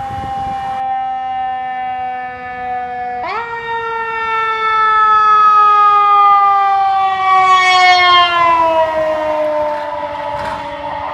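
Fire truck siren sounding while responding. Its pitch sags slowly, jumps sharply up about three seconds in, then winds slowly down again, dropping a little faster near the end.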